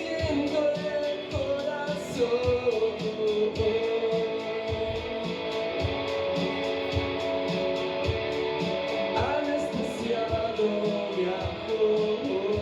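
Indie rock band playing live, caught by a room microphone: electric guitar and a steady drum beat under a sung vocal line.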